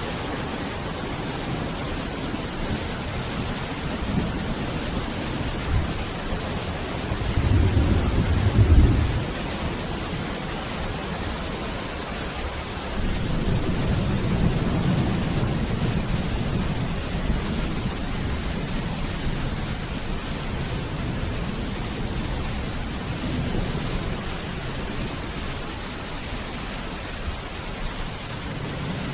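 Steady heavy rain hissing, with thunder rumbling low twice: a louder roll about seven to nine seconds in, and a longer, softer one about midway.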